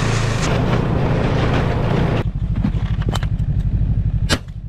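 Snowmobile engine running with a low, rapid pulsing, under a hiss that drops away a bit over two seconds in. A few sharp clicks come in the second half.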